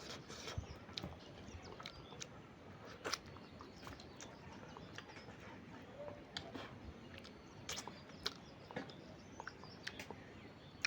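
Quiet eating sounds: chewing, with scattered small clicks and smacks of a mouth eating fish curry and rice.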